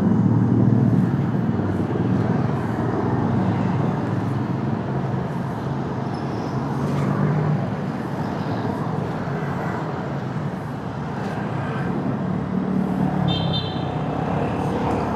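Motorcycle running at road speed in traffic, its engine note steady under a constant rush of wind and road noise. A vehicle horn toots briefly near the end.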